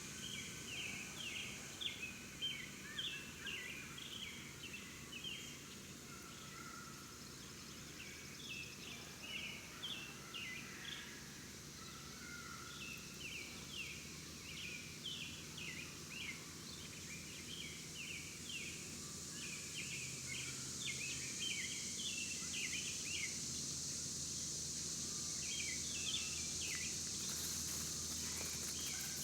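Outdoor ambience of small birds chirping in quick runs of short notes, over a steady high-pitched hiss.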